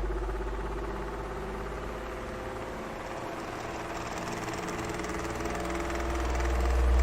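Electric fan running: a low motor hum with a steady whir and a few humming tones above it. It grows quieter toward the middle and then louder again, rising steeply near the end.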